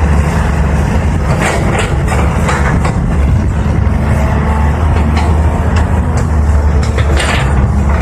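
Diesel engine of a CAT 320 hydraulic excavator running steadily under work, with a few short knocks and scrapes over it as it digs.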